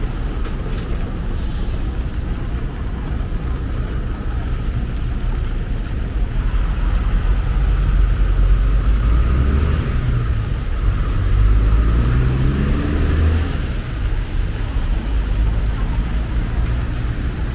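Traffic on a rain-wet city avenue: vehicles passing with a steady low rumble and tyre hiss. About eight seconds in, an engine revs up as a vehicle pulls away, its pitch rising twice before it fades.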